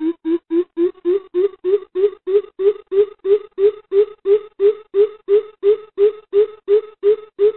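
Greater coucal's deep hooting call: a long, even run of about four low hoots a second, stepping slightly higher in pitch about a second in.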